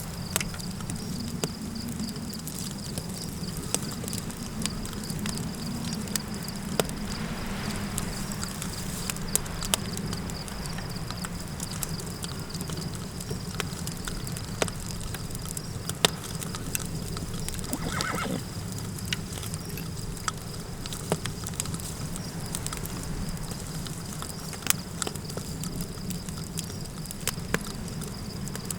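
Campfire crackling with scattered sharp pops over a steady low rumble of night wind. A steady high chirring of crickets runs underneath, and a short animal call sounds about eighteen seconds in.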